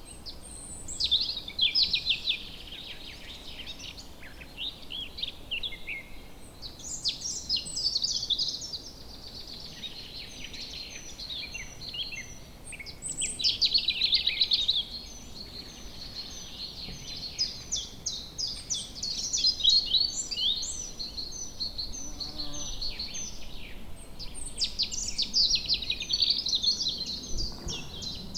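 Several songbirds singing and chirping at once in woodland, overlapping rapid trills and high chirps with no pause, over a faint steady background hiss.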